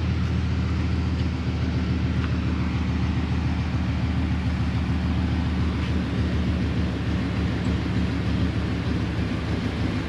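1997–98 GMC Sierra 2500 pickup engine running at a steady idle, a low, even pulsing drone. It is running roughly and sounds like it wants to die.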